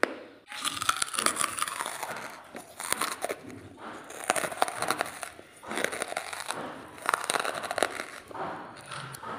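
Close-miked crunching and chewing of dry charcoal, with crisp cracking bites coming in a run of bursts about one a second.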